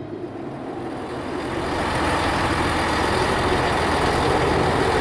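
Two-car diesel passenger train running past, its engine and wheel rumble growing louder over the first couple of seconds and then holding steady.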